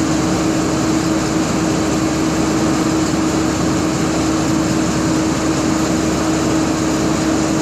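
SV540T engine running steadily at constant speed, a continuous hum with one strong steady tone.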